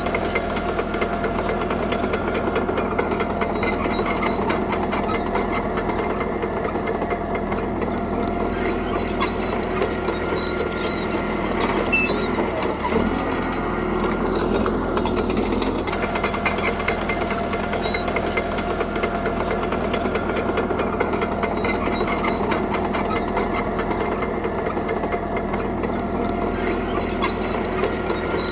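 Caterpillar D3K crawler bulldozer working: its diesel engine running steadily under the constant clatter of its steel tracks, with the engine note dipping briefly about halfway through.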